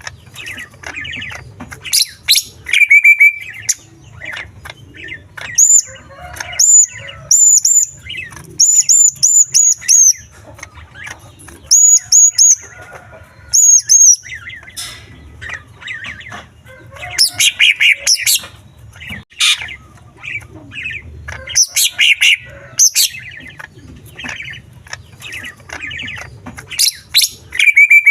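Male greater green leafbird (cucak ijo) singing loudly, a varied song packed with mimicked calls of small birds. It runs through fast chirps and trills, broken by runs of four to six quick, repeated high whistled notes.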